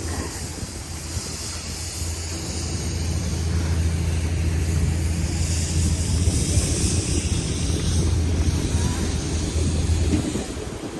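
City street traffic noise: a steady low rumble, with a hiss that swells in the middle, and the rumble drops away about ten seconds in.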